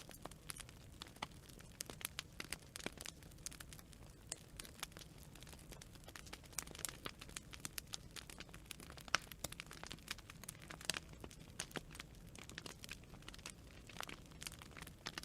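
Wood fire burning and crackling: many irregular sharp pops and snaps over a low steady rumble of the flames.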